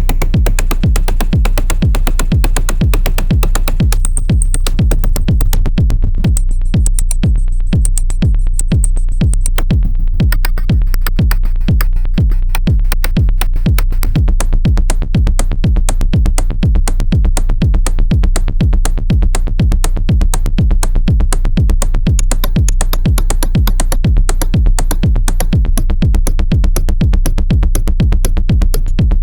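Eurorack modular synth patch built around the Paratek SATURN square-wave noise module: a fast, dense run of glitchy clicks over a steady deep bass pulse. A thin high whistle runs from about four to nine seconds in.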